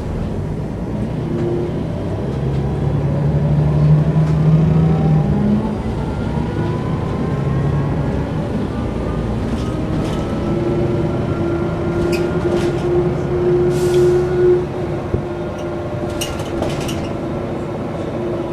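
Mercedes-Benz O405 N² city bus driving: its diesel engine pulls with a strengthening, rising note a few seconds in, with a thin rising whine from the drivetrain, then holds a steady hum. Short clicks and rattles come now and then.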